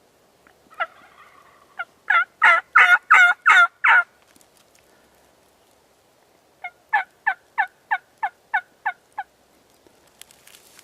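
Two series of turkey yelps: a loud run of about eight evenly spaced notes, then a softer run of about nine, each note dropping in pitch.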